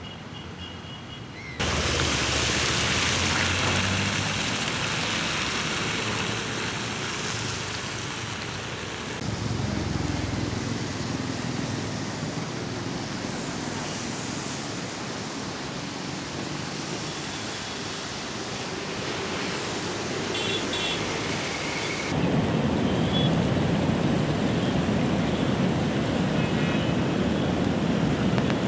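Steady rushing noise of the flooded Bagmati river. It starts abruptly about a second and a half in and turns louder and deeper at a cut about 22 seconds in.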